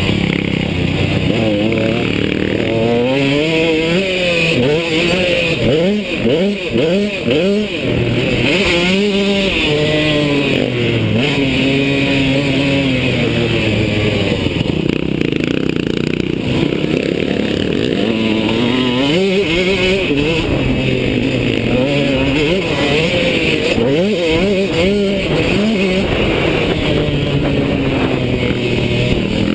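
KTM two-stroke motocross bike engine revving hard and backing off over and over, its pitch climbing and dropping every second or two through throttle and gear changes.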